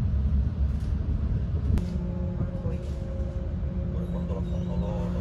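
Interior running noise of an ETR600 Frecciarossa (New Pendolino) tilting high-speed train: a steady low rumble inside the carriage. About two seconds in, a steady hum at a few fixed pitches joins it.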